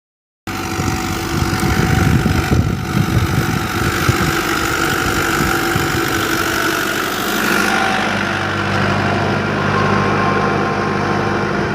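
Tractor diesel engine running steadily, its low engine note over a dense rush of noise. It starts abruptly after a moment of silence.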